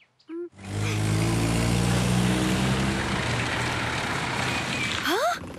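Cartoon car engine sound effect as a small ambulance car drives off: a motor starts up about half a second in and runs with a steady rush of road noise, easing off slightly before it stops near the end.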